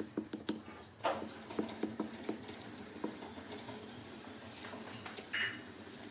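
Irregular light clicks and knocks of small hard objects being handled, most frequent in the first two and a half seconds, with a brief louder scrape about five seconds in.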